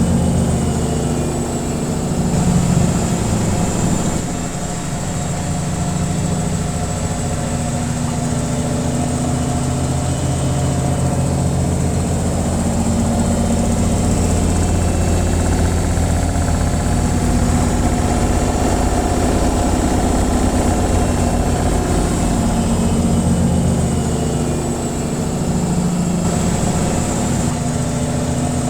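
Washing machine on its spin cycle: a steady low hum and rumble from the motor and spinning drum, with a fine rapid rattle.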